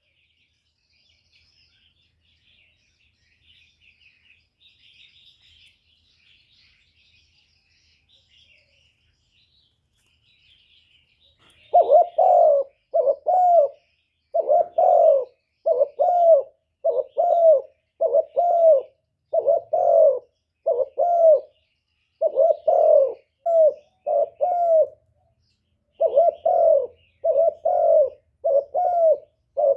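Spotted dove cooing: for the first twelve seconds only faint high chirps of small birds, then a long series of short, low, loud coos, a little faster than one a second, with a few brief pauses.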